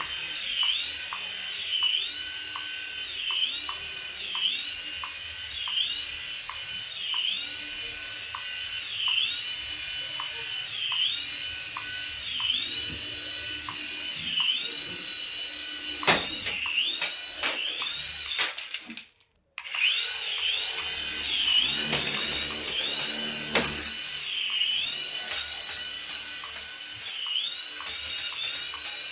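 A battery-powered remote-control toy's high-pitched whir, its pitch dipping and recovering about once a second. It cuts out completely for a moment a little past two-thirds of the way through, then carries on.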